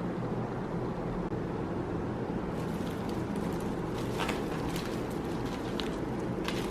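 Steady low rumble, with a few light clicks and ticks in the second half.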